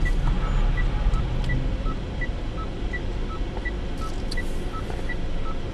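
Steady engine and road rumble inside a moving car, with a faint electronic beep alternating high and low tones about three times a second.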